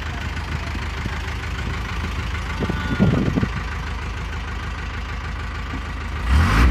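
Truck engine idling steadily, with a short louder sound about three seconds in and a louder low rumble near the end.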